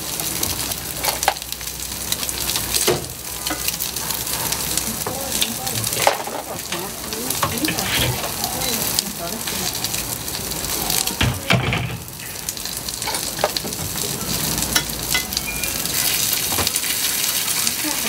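Food sizzling as it fries in a hot pan or on a griddle, a steady hiss broken by frequent clicks and knocks of a utensil stirring and turning it.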